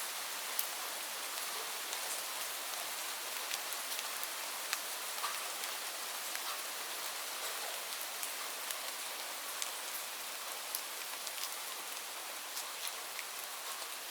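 Steady rain falling, an even hiss with many individual drops ticking sharply on a surface at irregular moments.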